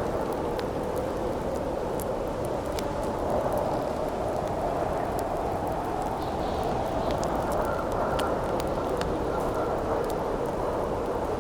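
Steady howling wind with the sharp, scattered crackles of a wood campfire over it, and a faint whistle in the wind now and then.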